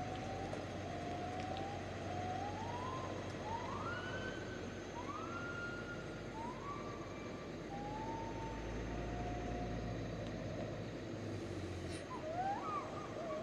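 Heavy truck engine labouring under load, a low rumble with a whine that rises and levels off again and again as the engine is revved. A few short, wavering chirps come near the end.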